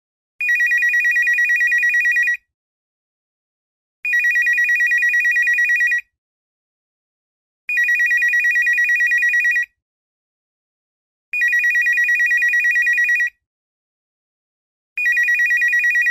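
Telephone ringing with a fast trilling high-pitched tone: five rings of about two seconds each, repeating about every three and a half seconds with silence between them.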